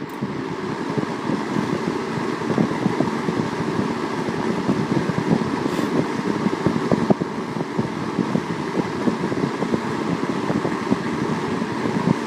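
Kmart C-14 box fan running on its high setting: a steady rush of moving air, with a fluttering, buffeting texture.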